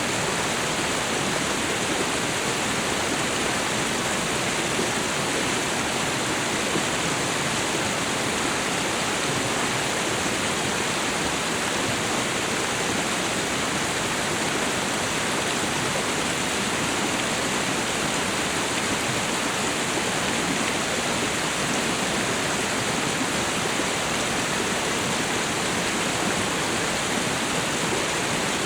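Waterfall and river water rushing, a steady even roar with no changes.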